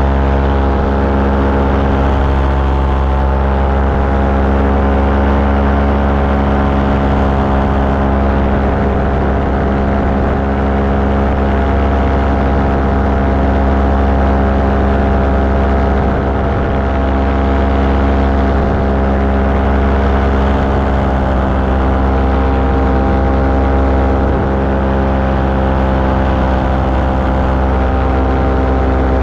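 Small aircraft's engine and propeller running steadily at a constant power setting in flight.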